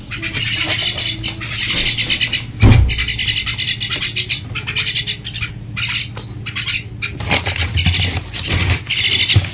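Pet common myna (salik) chattering in fast, rattling calls over a low steady hum, with one sharp knock about three seconds in.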